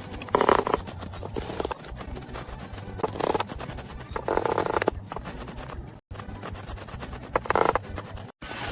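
Hand scraping on a surface: several short strokes of about half a second each, with fine ticking between them, and the sound cutting off abruptly twice near the end.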